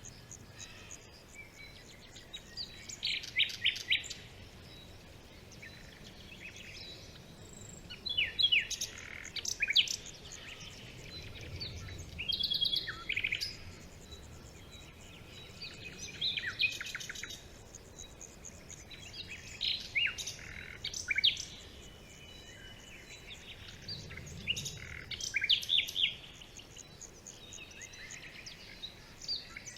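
Several small birds singing and calling in a forest: repeated short chirps and quick trills every second or two, with no one voice dominant.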